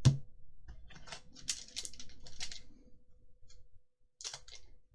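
Trading cards and their packaging handled on a desk: a sharp click, then a run of short papery rustles and clicks, with a few more near the end.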